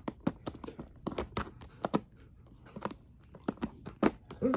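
A cat clawing and pawing at a package it is trying to get open: a string of irregular clicks, taps and faint crinkles.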